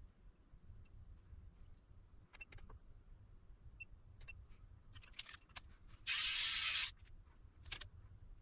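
A short, loud hiss of a little under a second, about six seconds in, among faint scattered clicks and taps of handling over a low steady hum.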